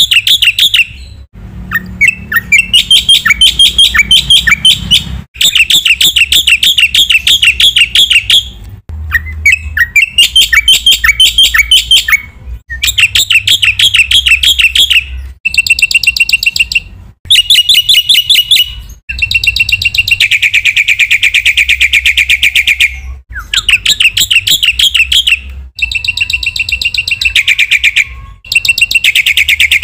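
Black-winged myna (jalak putih) singing loudly and continuously: about ten phrases of rapid, rattling repeated chirps, each lasting one to four seconds, with short breaks between them.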